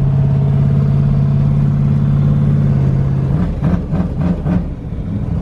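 Unmuffled twin-turbo LS V8 idling high and steady, then about three seconds in the idle drops and runs uneven. The owners put the high, hunting idle down to a vacuum leak.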